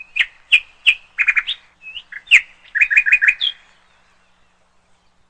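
A songbird singing a rapid series of short chirps and quick trills, then falling silent after about three and a half seconds.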